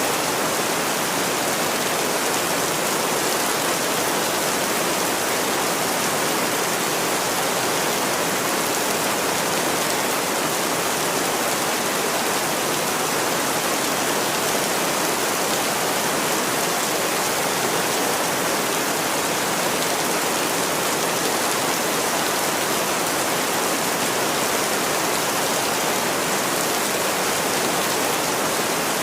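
Steady rain, an even hiss of falling water with no breaks or individual events standing out.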